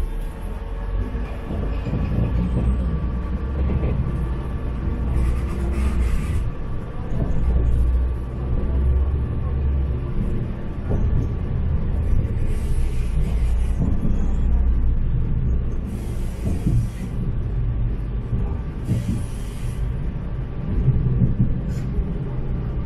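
Diesel railcar of the Nærum local line running: a steady low rumble of engine and wheels, with four short bursts of hiss along the way.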